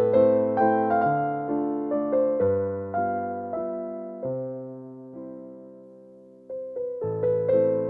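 Background piano music: slow chords and melody notes struck and left to ring away, dying down to a lull about five to six seconds in before the playing picks up again.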